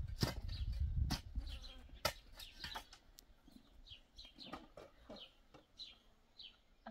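Birds chirping in short notes that each fall in pitch, a few a second through the second half. A low rumble and a few sharp knocks fill the first two seconds.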